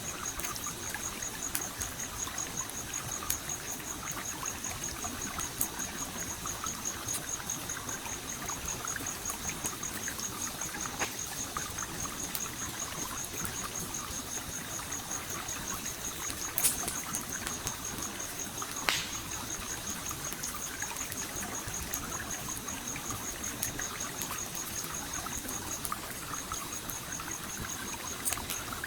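Stream flowing and trickling, with occasional sharp pops and crackles of a campfire, the loudest two a little past halfway. A steady high, fast-pulsing trill runs over it and breaks off briefly near the end.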